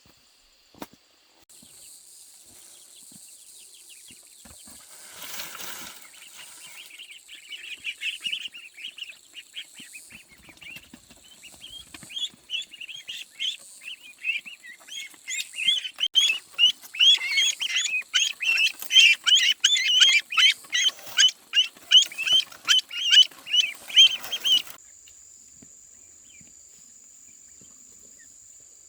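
A crowd of poultry chicks peeping: many short, high cheeps overlapping in a dense chorus that grows louder, then stops abruptly.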